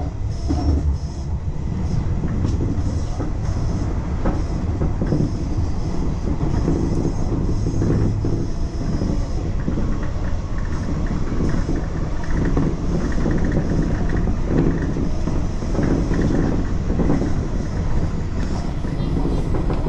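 Tobu Railway electric commuter train running along the line, heard from inside the front car: a steady rumble of wheels on rail, with scattered clacks from the wheels.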